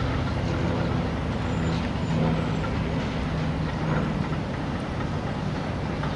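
Grain hopper wagons of a freight train rolling past on a curve: a steady rumble of steel wheels on rail with a low hum, strongest a couple of seconds in.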